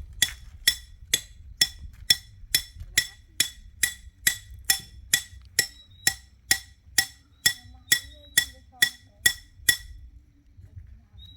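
A steady series of about twenty sharp, ringing metallic strikes, a little over two a second, stopping shortly before the end.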